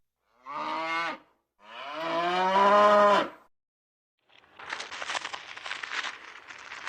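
A cow mooing twice, a short call and then a longer, louder one, each held at a steady pitch. About four seconds in, a dense crackling, crunching noise begins.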